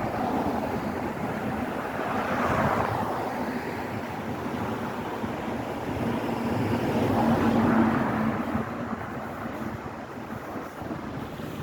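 Street traffic: vehicles passing by, the noise swelling twice and easing off between.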